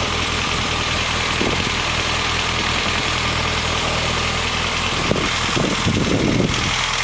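1973 MG Midget's 1275 cc A-series four-cylinder engine idling steadily while it warms up after being started for the first time in 15 years.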